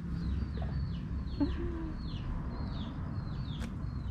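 A bird calling over and over with short, high, falling chirps, about two a second, over a low rumble.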